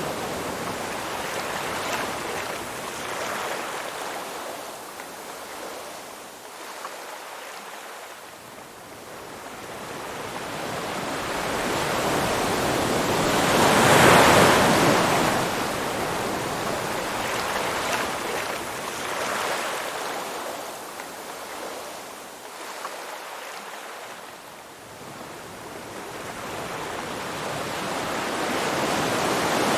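Ocean surf: a steady wash of waves that swells to a peak about halfway through and again at the end, fading between.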